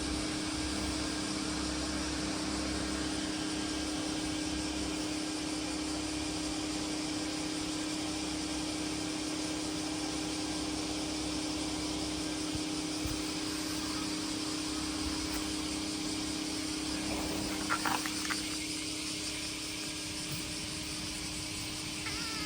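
Steady outdoor summer ambience: an even hiss with a constant low hum beneath it, and a few short high chirps about eighteen seconds in.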